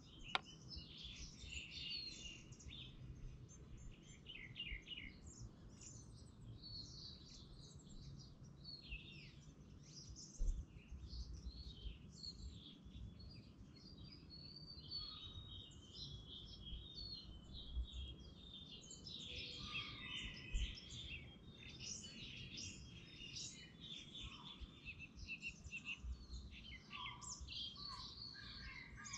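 Birdsong: a continuous mix of chirps and trills, with a faint low rumble underneath and a sharp knock just after the start and again about ten seconds in.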